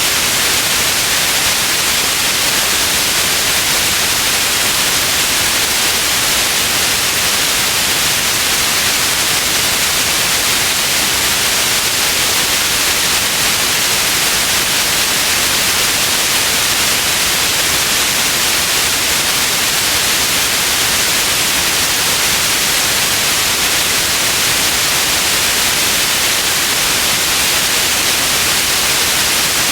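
Steady white noise: an even, unchanging hiss, heavier in the high frequencies than the low.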